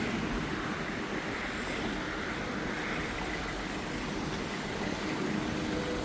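Steady road and wind noise from a moving vehicle.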